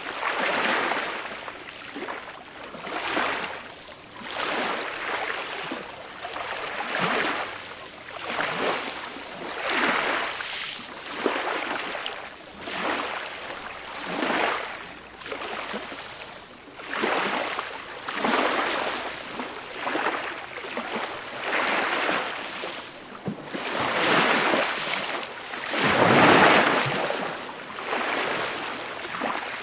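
Small, gentle waves washing onto the shore, the hiss of water swelling and falling back every second or two, with one bigger wash near the end.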